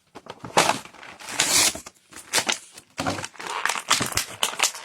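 Action-figure packaging being handled and opened: irregular crinkling, crushing and scraping.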